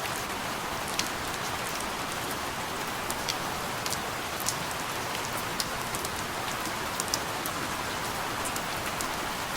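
Steady rain, an even hiss with single drops ticking sharply through it at irregular moments.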